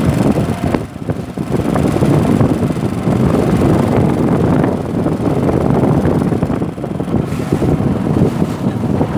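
Strong wind buffeting the microphone, a loud, uneven rush, over the noise of a boat moving across choppy river water.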